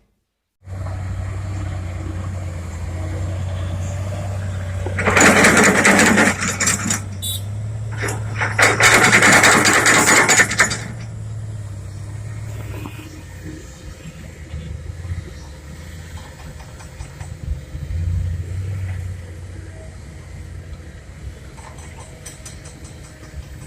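Dump truck's diesel engine running with a steady low hum, interrupted about a quarter and again about halfway through by two loud bursts of rushing noise, each lasting a couple of seconds.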